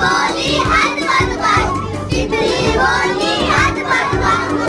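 A group of children singing a devotional poem together, several voices at once, with low thumps underneath.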